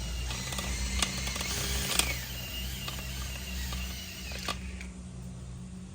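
DeWalt drill spinning a dryer-vent cleaning brush on flexible rods inside the vent line: a steady motor drone with rattling and a few sharp clicks, the drone dropping away about four seconds in.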